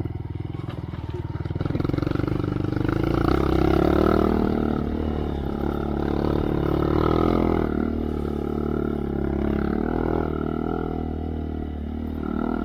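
2023 Honda Monkey's air-cooled single-cylinder engine through a Yoshimura RS3 exhaust with spark arrestor, ridden slowly on a trail: low revs with distinct firing pulses at first, then revving up about two seconds in and rising and falling with the throttle.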